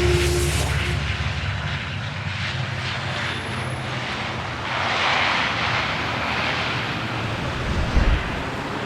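Steady low engine rumble of a large vehicle, with a rush of louder noise about five seconds in and a short thump near the end.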